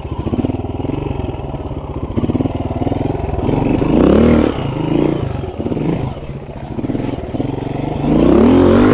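Honda RTL trials motorcycle's single-cylinder four-stroke engine chugging at low revs while the bike climbs rocks. The throttle is opened twice, about four seconds in and again near the end, each time bringing a rising rev.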